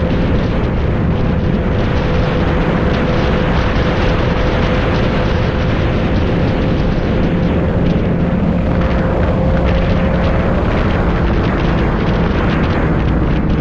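Motorcycle engine running at a steady speed under heavy wind rush on the microphone, its pitch easing down slightly near the end.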